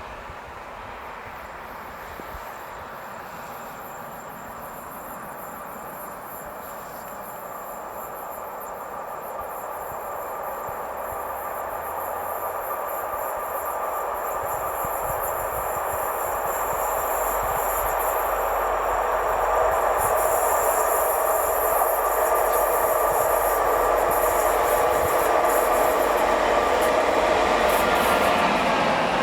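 A train on the mainline approaches, growing steadily louder for about twenty seconds, then runs by at full loudness with a steady rolling rumble of wheels on rail.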